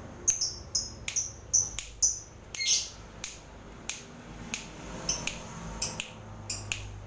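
Pet lovebird giving a rapid series of short, sharp, high chirps and squawks, mixed with clicks.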